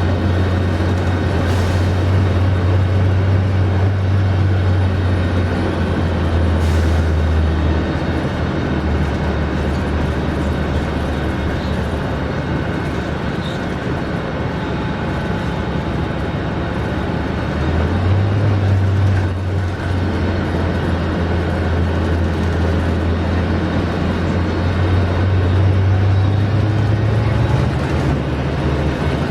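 Scania K310IB bus's diesel engine running with a loud, low drone. It eases down in pitch about eight seconds in, then picks up again around eighteen seconds and climbs further near the end as the bus pulls away and accelerates.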